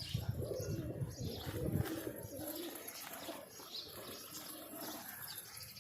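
Domestic pigeons cooing: low, rolling coos in the first two seconds, then quieter, with a few faint chirps.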